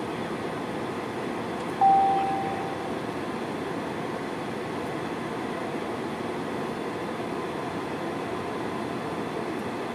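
Steady in-flight cabin noise of an Airbus A320-214 climbing: CFM56 engine and airflow rush. About two seconds in, a single cabin chime sounds and fades over about a second, the chime that goes with the seatbelt sign being switched off.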